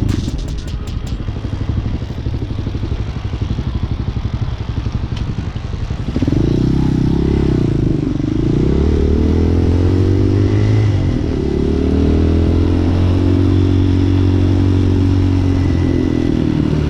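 Hawk 250 dual-sport motorcycle engine on a ride: it runs low and rough for about six seconds, then picks up speed, its pitch climbing, dropping back and climbing again through gear changes before it settles into a steady cruise.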